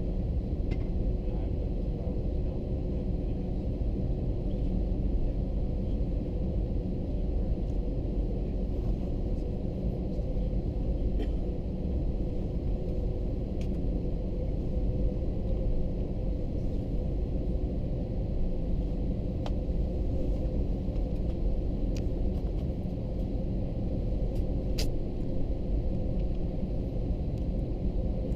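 Airbus A321-200 cabin noise with the engines running: a steady low rumble with an even hum, with a few faint clicks or rattles.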